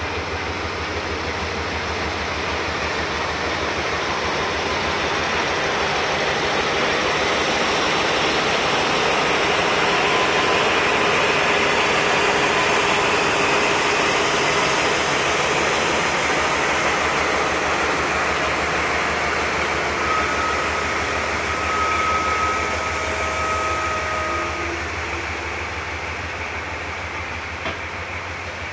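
InterCity 125 high-speed train pulling slowly past, a steady rumble of the diesel power car and coaches rolling over the track. It swells to its loudest about halfway through, then eases off. A thin, steady squeal is heard for a few seconds about two-thirds of the way in.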